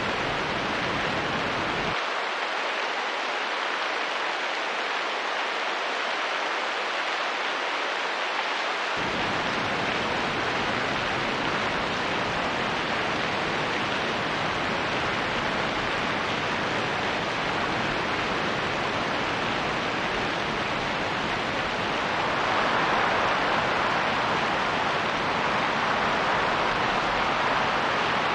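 Steady rain and wind making a continuous even hiss. For several seconds near the start the low rumble drops away and the sound goes thinner, and about three-quarters of the way through it swells a little louder.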